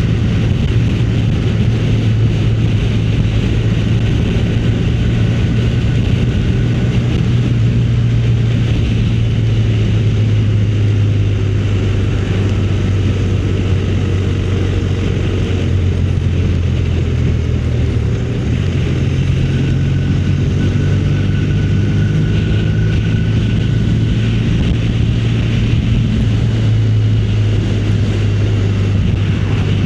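Motorcycle engine running steadily while riding along, a constant low drone, with a brief change in engine note about eighteen seconds in.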